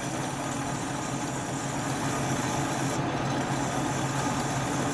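Atlas metal lathe running steadily, a constant motor hum with an even mechanical whir over it.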